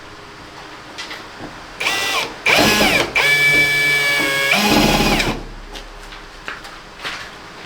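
Power drill motor whining in a few short bursts from about two to five seconds in, holding a steady pitch and dipping slightly before it stops.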